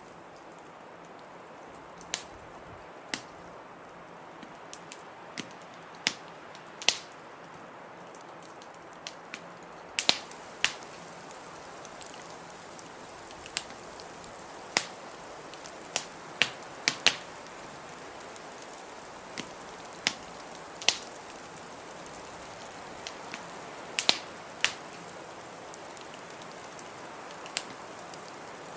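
Wood fire in a fireplace crackling, with sharp pops coming at irregular intervals over a steady rushing hiss.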